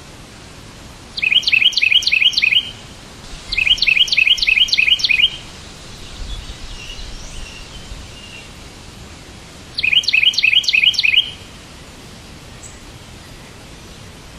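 A bird singing three bursts of quick, repeated chirps, each burst lasting a second or two, with softer twittering between the second and third. A steady hiss runs underneath.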